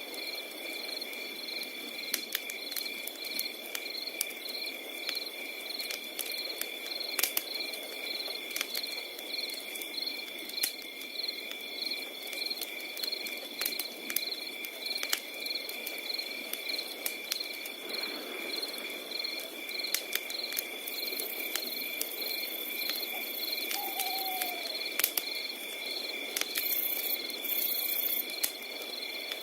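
Crickets chirping continuously in steady, evenly pulsing trills, layered with the sharp snaps and pops of a crackling wood fire. A short falling call is heard once, late on.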